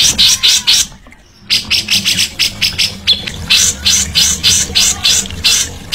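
A songbird giving a fast series of harsh, rasping call notes, about four a second, with a short break about a second in.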